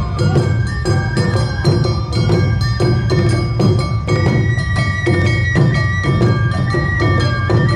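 Awa Odori festival band playing: a bamboo flute melody stepping from note to note over taiko drums, with a ringing metal gong.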